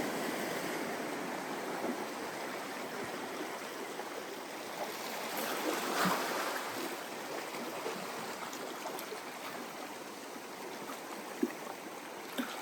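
Ocean waves washing up on a sandy beach, a steady rushing wash that swells about six seconds in.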